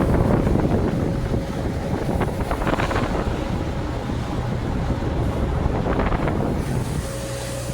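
CNC router running while cutting foam board: a steady, loud rumbling noise with a faint steady whine, and a few brief louder swells as the cutter works.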